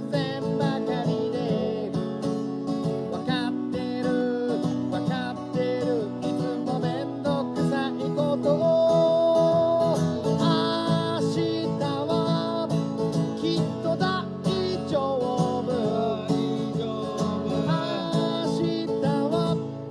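Acoustic guitar being played live, with a melody line running over it and one long held note about halfway through.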